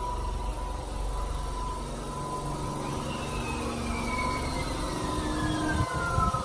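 Electric commuter train at a station platform: a steady low rumble and hum, with a thin whine that falls steadily in pitch over the second half.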